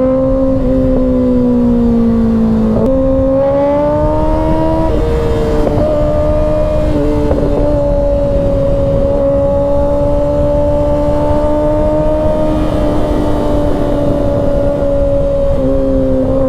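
2024 Kawasaki ZX-6R 636's inline-four engine running at a steady cruise under riding load, its note stepping in pitch about three seconds in, again about five seconds in and once near the end. Wind rush sits underneath it.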